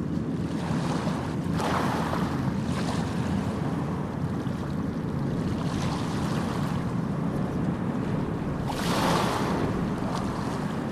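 Sea waves breaking and washing ashore over a steady low rumble, with a louder wave about a second and a half in and another near the end.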